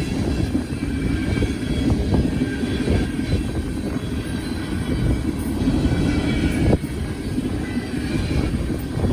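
Loaded ethanol freight train of tank cars rolling past: a steady rumble of wheels on rail with a few short knocks, some of them about two, three and seven seconds in.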